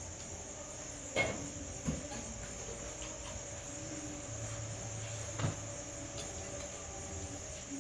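Crickets chirring steadily, with a few sharp knocks about a second in, near two seconds and again later on.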